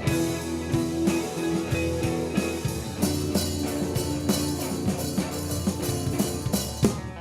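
Rock band playing: electric guitar with sustained notes over bass and a drum kit keeping a steady beat. Near the end the playing thins out and drops in level.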